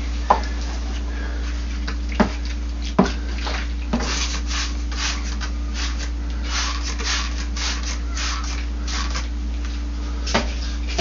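A few sharp knocks, then a quick run of about a dozen short hissing squirts from a trigger spray bottle of cleaner, over a steady low hum.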